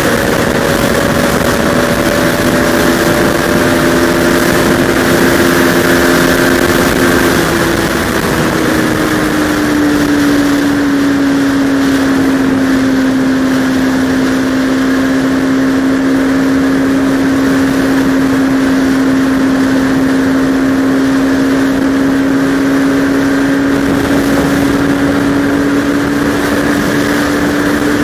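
Bajaj Pulsar RS200 single-cylinder engine running under way at steady revs, with wind rushing over the helmet-camera microphone. The engine note drops about eight seconds in, then holds steady.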